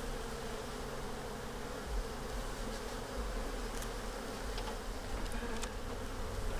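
Honeybees buzzing steadily around an opened hive, a dense hum of many bees in flight, with a few faint clicks from the frames being handled.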